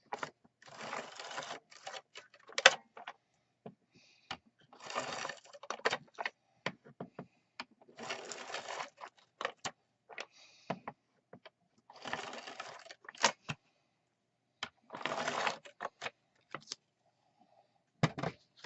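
Tape runner drawn along card in about five strokes, each a noisy run lasting about a second, with small clicks and taps of handling between the strokes.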